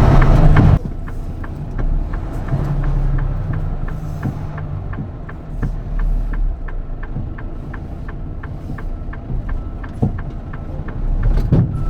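A truck running with a low rumble, overlaid by a rapid, even ticking at about four ticks a second.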